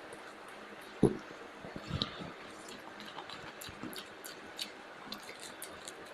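A person eating biryani: chewing and soft squishing of rice, with scattered small clicks and a louder knock about a second in.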